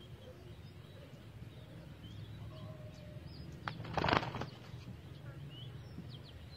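A brief flutter of a bird's wings about four seconds in, preceded by a click, over faint chirping of small birds.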